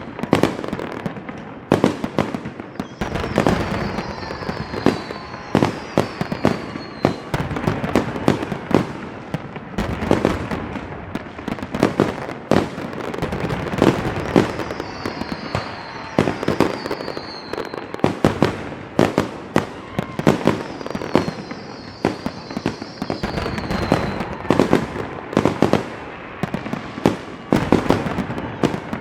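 A dense fireworks barrage with rapid cracks and bangs throughout, and a few short falling whistles.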